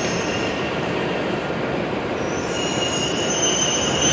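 W7 series Shinkansen train running slowly along the platform as it pulls in, a steady rush of running noise. A high-pitched squeal joins about halfway through as it slows to a stop.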